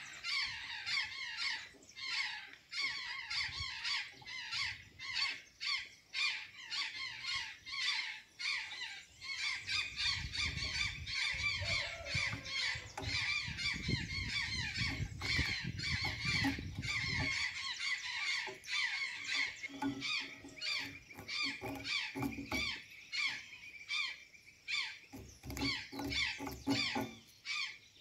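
Azure jays calling and chattering continuously in a dense stream of squawks and short calls, with many sharp clicks mixed in. A low rumble runs for several seconds around the middle.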